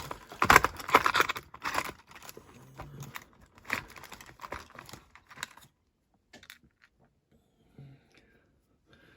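Small hard parts and tools being handled on a workbench: a clatter of clicks and rustling for the first couple of seconds, then scattered clicks that die away about halfway through.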